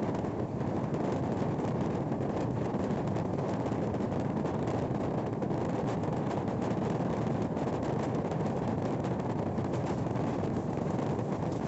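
Steady rush of wind over the microphone of a phone held out at the window of a fast-moving train, over the train's running noise from wheels on rails.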